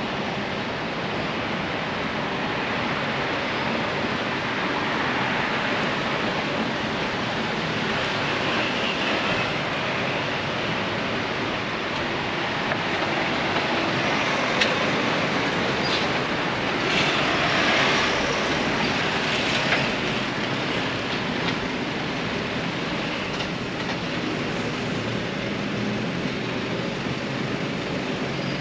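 Street traffic noise: a steady rush of passing vehicles, with one vehicle swelling louder and fading about two-thirds of the way through, and a sharp tick shortly before it.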